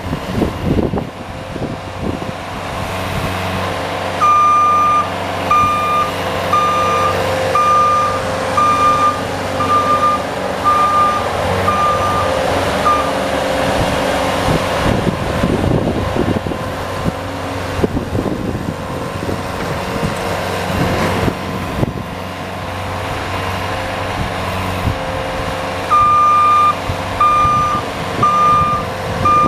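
A vehicle engine running steadily, with a reversing alarm beeping about once a second in two spells: from about four seconds in until about thirteen, and again near the end, as the plowing vehicle backs up.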